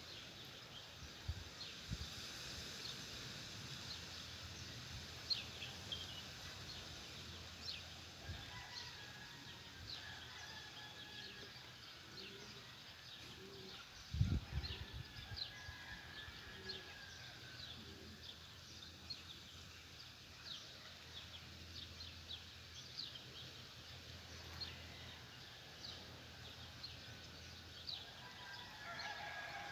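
Morning birdsong: many small birds chirping in short, high notes all through, with a single low thump about halfway and a rooster crowing faintly near the end.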